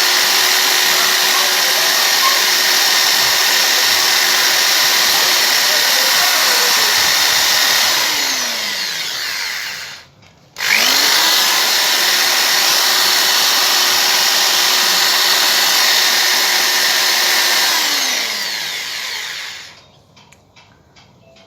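Electric power tool, drill-type, running in two long runs: each time the motor spins up, holds a steady whine with a harsh working noise over it, then winds down and stops. The first run ends about ten seconds in; the second starts right after and winds down near the end.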